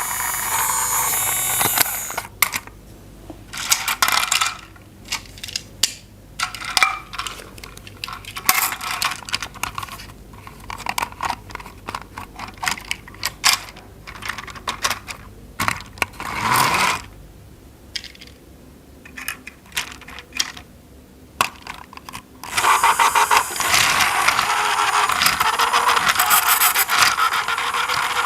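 Plastic toy pieces being handled, many small clicks, taps and rattles, with a small battery toy motor whirring steadily at the start and again from about two-thirds of the way through.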